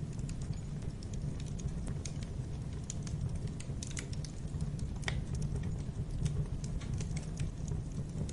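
Wood fire crackling: a steady low rumble of flames under irregular sharp pops and snaps, with one louder pop about five seconds in.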